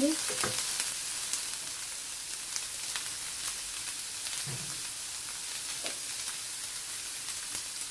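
Chicken, grated carrot and cashews sizzling steadily in oil in a frying pan, with scattered small crackles.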